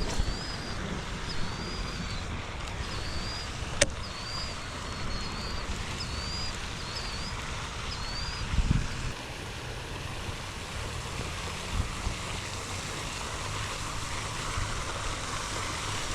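Steady outdoor wind noise, with a bird giving short chirps about once a second through the first half and a single sharp click about four seconds in.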